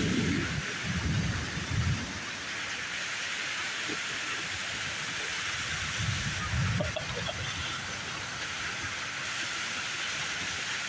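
Heavy rain falling in a steady hiss during a severe thunderstorm, with low rumbles of thunder swelling near the start and again about six seconds in.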